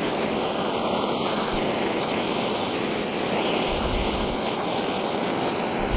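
Gas torch flame burning with a steady hiss, heating tin solder to fix a wound copper-wire ball in place.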